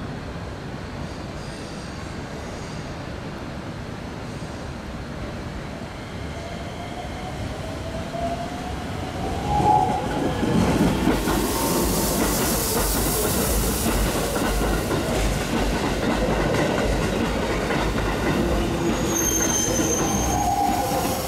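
Keikyu New 1000 series electric train running in and passing close, a rumble on the rails that builds to its loudest about halfway, with a whine rising in pitch as it nears. Near the end there is a brief high squeal.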